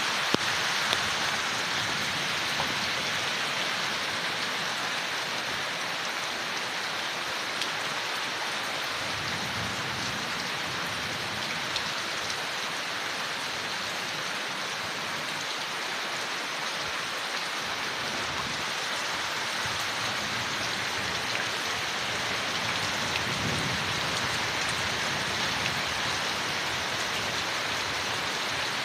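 Steady rain falling on leaves, an even hiss with scattered sharper drop ticks.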